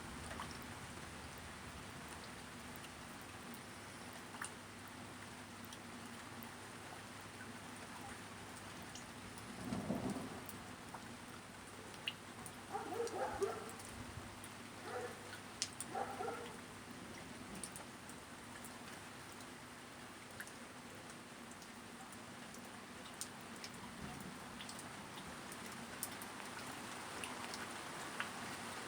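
Steady rain falling during a thunderstorm. About ten seconds in there is a brief low rumble, and a few seconds later a handful of short pitched calls.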